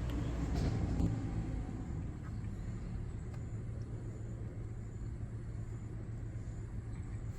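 Steady low outdoor rumble, with a couple of faint clicks about half a second and a second in.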